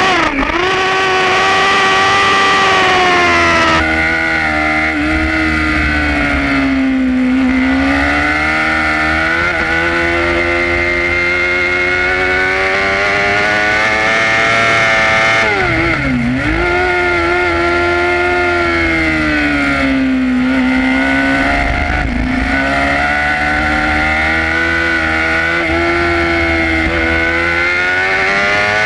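Yamaha R6 inline-four sportbike engine at racing speed heard onboard. The pitch climbs and falls as it is ridden hard through the gears and corners, with sharp drops in pitch at the start and again about halfway through.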